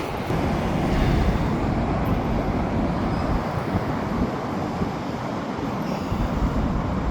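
Steady rumble of road traffic and a slow-moving freight train, with gusty low buffeting on the microphone.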